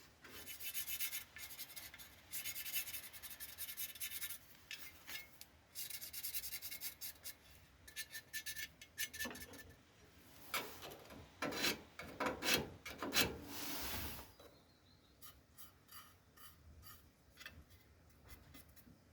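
Sheet-steel repair panel being trimmed by hand: irregular scraping, rasping strokes of metal on metal, thinning to a few light clicks over the last few seconds.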